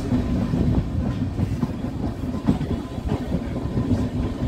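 Diesel-hauled heritage train running along the line, heard from an open coach window: a steady low rumble with the wheels knocking irregularly over the rail joints.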